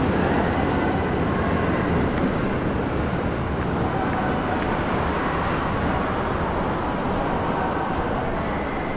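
Electric commuter train running on the tracks: a steady rumble that slowly fades as the train moves on.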